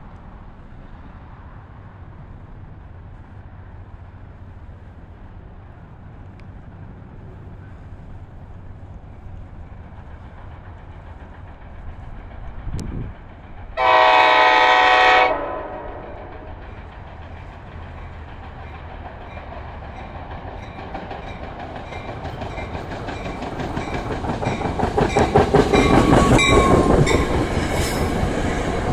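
Train approaching and passing close: a low rumble that grows, one short horn toot about halfway through, then rapid clicking of wheels over rail joints that swells to its loudest near the end.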